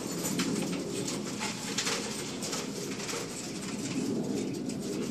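A rack of caged jumbo brown coturnix quail calling softly together in a steady low murmur, with scattered light clicks.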